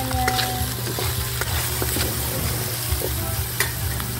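Chicken pieces sizzling as they brown in a hot wok with garlic and spring onion, while a metal ladle stirs and scrapes them, giving a few sharp clicks against the pan. A steady low hum runs underneath.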